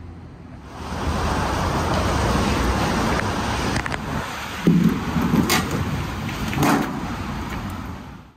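Street traffic: a steady wash of vehicle and road noise that swells up about a second in, with a few short knocks and clicks in the second half, then cuts off abruptly.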